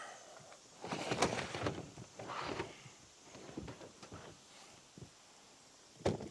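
Scattered rustling and handling noise with a few light knocks, and one sharp knock near the end.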